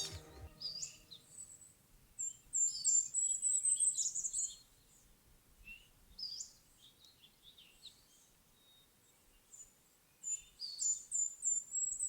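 A songbird singing twice, each song a run of high, fast trilled notes. Scattered softer chirps fall between the songs. Music fades out in the first half second.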